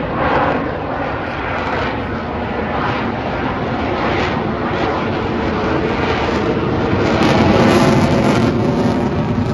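Jet noise from an F-35B Lightning II's F135 turbofan engine during a flying display pass: a loud, steady, rough noise that swells about seven seconds in.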